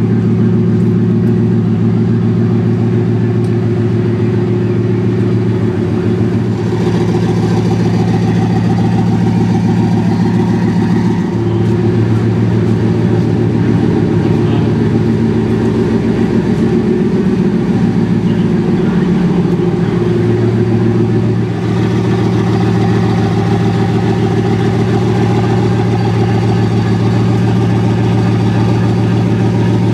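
Bugatti Vision GT's W16 engine idling steadily through its quad exhausts, its pitch wavering slightly for a few seconds midway.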